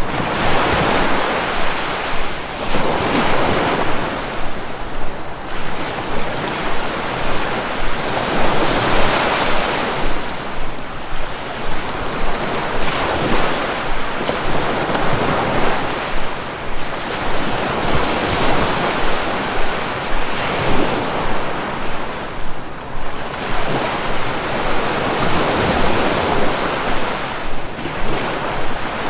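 Sea waves breaking and washing on the shore, surging and receding every few seconds, with wind buffeting the microphone.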